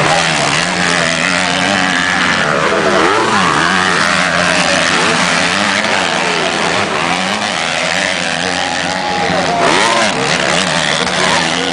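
Several motocross bikes racing, their engines revving up and down and overlapping as they work through the track.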